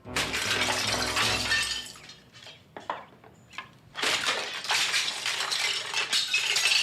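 Glass shattering with shards clinking and falling, in two crashes: one at the start lasting about two seconds, and another from about four seconds in, with scattered tinkles between.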